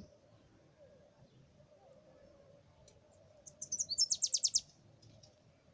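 A bird calling: a quick run of about eight high, sharp chirps lasting about a second, a little past the middle. A faint steady hum lies underneath.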